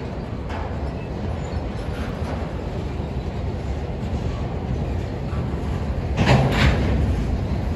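Union Pacific freight cars rolling past with a steady low rumble of wheels on rail. Two loud, sharp clanks come close together about six seconds in.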